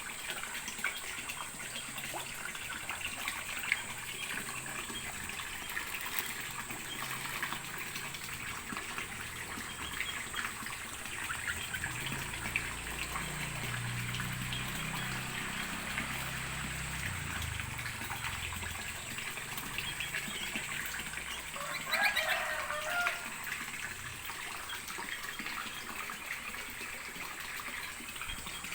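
Water trickling steadily, with a short, louder sound about two-thirds of the way through.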